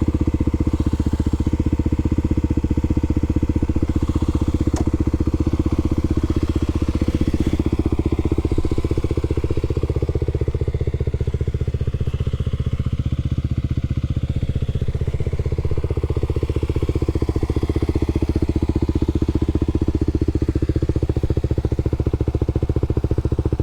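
Kawasaki KLX300SM's single-cylinder engine idling steadily at an even pitch while the bike stands still.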